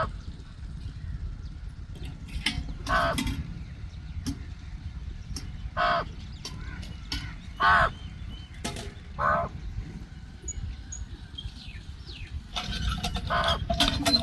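House crows (Corvus splendens) cawing: about five harsh calls a couple of seconds apart, over a steady low rumble. Near the end a busier jumble of other sounds comes in.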